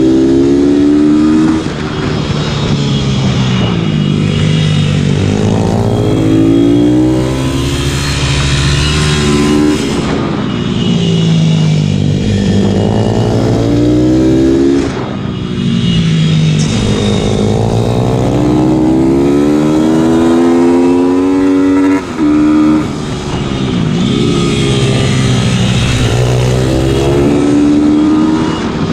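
Pitbike engines heard onboard at racing pace, the pitch climbing again and again under hard acceleration and falling away as the throttle closes for the corners, with sharp drops about two, ten, fifteen and twenty-two seconds in.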